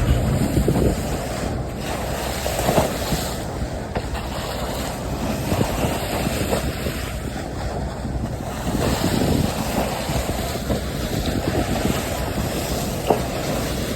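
Sea water rushing and splashing along a moving ship's bow, a steady hiss that rises and falls in uneven surges, with wind buffeting the microphone.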